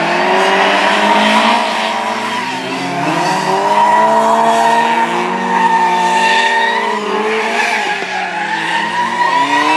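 Amateur rally cars driven hard on a track, engines revving with pitch repeatedly rising and falling, and tyres squealing and skidding.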